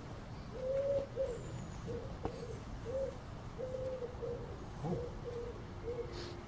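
A bird calling in a run of about eight low, steady-pitched notes, some short and some drawn out.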